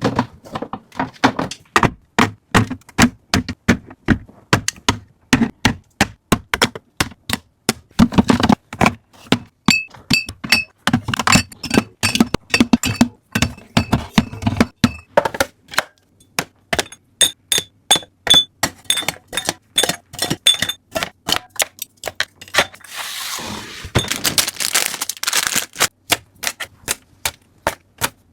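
Items and containers being set down, tapped and arranged while restocking a fridge: a long run of sharp taps and knocks, two or three a second. Some knocks ring briefly with a clear tone about ten seconds in and again a little past the middle, and a rustling noise runs for a few seconds near the end.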